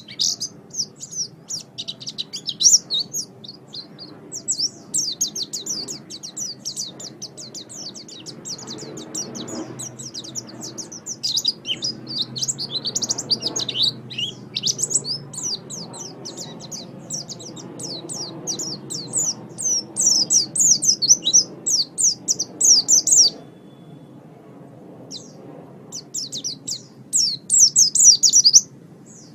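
White-eye (pleci) singing a long, fast, high-pitched twittering song of rapid chirps. It pauses for about three seconds near the end, then gives one more short burst.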